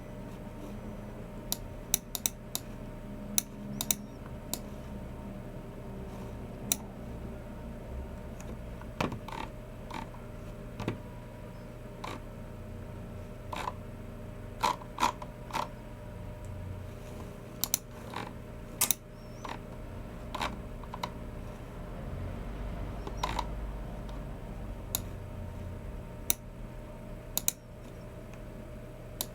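Sparse, irregular clicks from a low-profile Logicool MX Keys Mini keyboard and a Logicool G304 mouse, single keystrokes and clicks with a few quick clusters, over a steady low hum.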